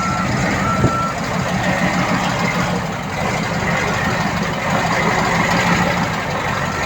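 Backup alarm of an earthmoving machine beeping at one steady pitch, three beeps about a second apart at the start and one more near the end, over a heavy diesel engine running steadily.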